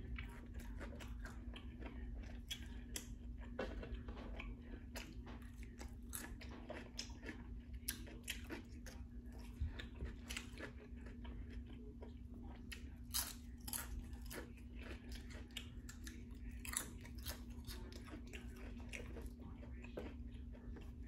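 Close-up chewing and biting into a sub sandwich and crunchy potato chips: irregular crisp crunches and mouth sounds, at a low level, over a faint steady hum.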